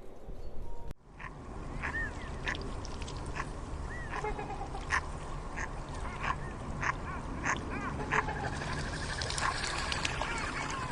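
Short animal calls repeated in quick, irregular succession over a steady background noise, starting after a sudden break about a second in.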